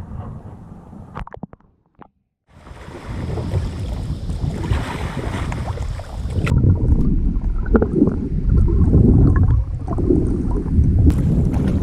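Wind rumbling on the microphone over water sounds from a kayak. The sound cuts out briefly about two seconds in, then the wind rumble comes back and grows louder.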